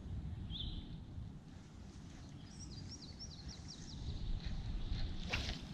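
Wind buffeting the microphone as a steady low rumble, with a small songbird calling over it: one short chirp near the start and a quick run of high chirps about halfway through. A sharp click near the end.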